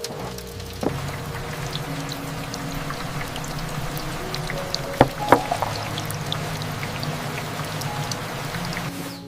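Steady stream of running water that stops abruptly near the end, with soft sustained low music notes underneath and a few light knocks.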